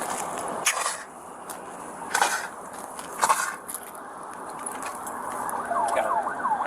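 Steady rushing background noise with a few brief knocks, then near the end an emergency vehicle siren starts a fast yelp, rapidly sweeping up and down in pitch.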